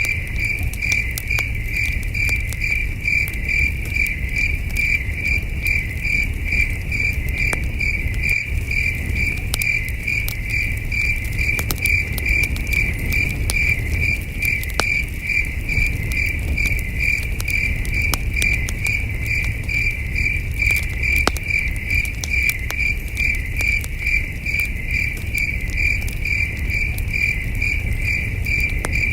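Crickets chirping in a steady, evenly pulsed high-pitched trill, with scattered sharp crackles of a campfire and a low rumble underneath.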